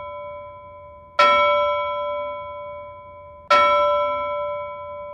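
A bell-like chime struck twice, about two and a half seconds apart, each strike ringing out with several steady overtones and slowly fading, the ring of an earlier strike still dying away at the start.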